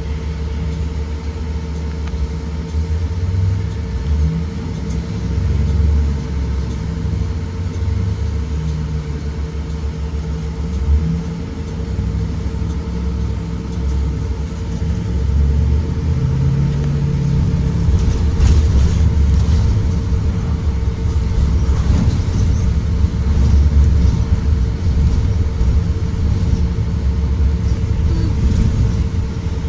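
Blue Bird Vision school bus under way: low engine and road rumble with a steady high whine, growing louder partway through as the bus picks up speed.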